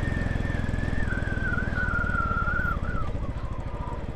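Royal Enfield Classic 500's air-cooled single-cylinder engine running on the road, its note dropping a little about three seconds in. Over it is a wavering high whistle that drifts lower and fades near the end.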